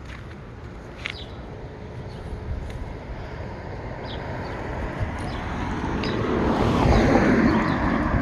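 A car approaching and driving past fast on the street, its noise swelling to a peak about seven seconds in and then easing off.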